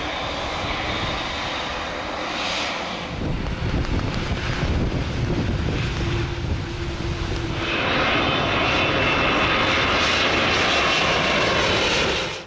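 Airbus A350-900 jet airliner's Rolls-Royce Trent XWB engines running loud as the aircraft passes. A deep rumble builds about three seconds in, a stronger whine joins about eight seconds in, and the sound cuts off suddenly at the end.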